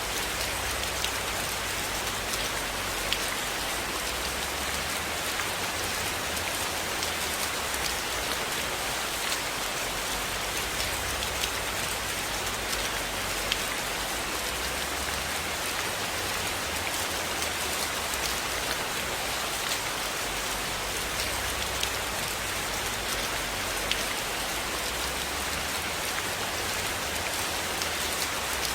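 Steady rain falling on a cabin, an even hiss with scattered sharp ticks and drips throughout.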